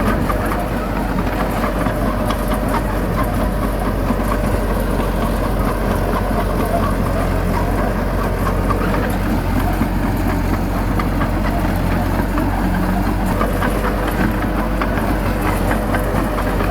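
Heavy diesel earthmoving engine running steadily with a low, even drone.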